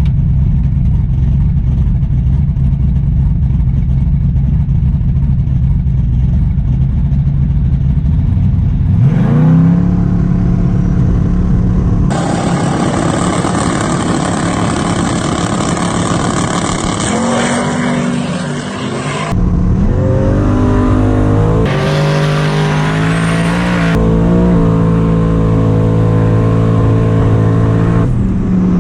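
Drag race car engines running loud: a steady idle, then an engine revving up about nine seconds in, followed by several abrupt changes to steady engine notes at different pitches.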